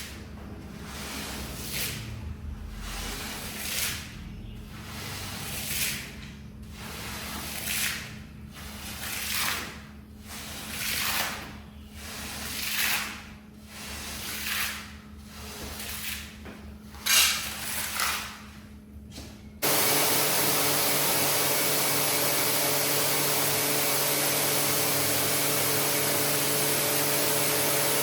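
Slow, rhythmic scraping or brushing strokes over a wet, muddy shaggy rug, one every second or two. About twenty seconds in, a loud, steady machine noise cuts in abruptly, the kind a wet vacuum or pressure washer makes.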